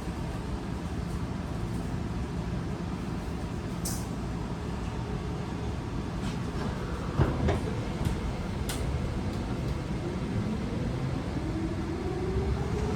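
Interior of a Tokyo Metro 18000-series electric train: a steady low rumble with a few short clicks. From about ten seconds in comes the rising whine of the VVVF inverter and traction motors as the train gets under way and accelerates.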